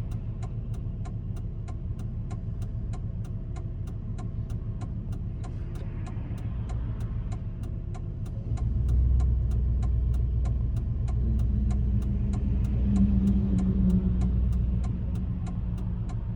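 Old pickup truck's engine running while driving, heard from inside the cab, with a steady fast ticking over it. About halfway through it gets louder and deeper as the truck accelerates, its engine note rising slightly.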